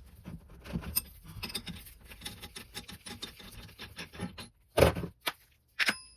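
Metal hand tools working on an oil burner: a run of small irregular clicks and scrapes, then three sharp, louder knocks near the end.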